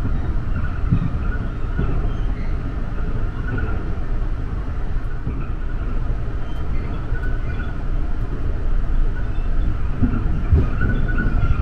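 Passenger train running along the line, heard from inside the carriage: a steady low rumble with a few dull thumps, and faint high-pitched tones that come and go.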